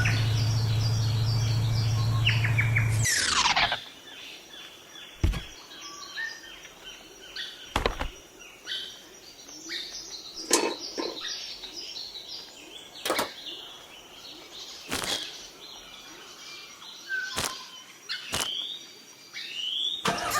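Small birds chirping. A steady low hum runs under them for about the first three seconds and cuts off after a quick falling swish. After that the chirping goes on more quietly, with a sharp click or knock every couple of seconds.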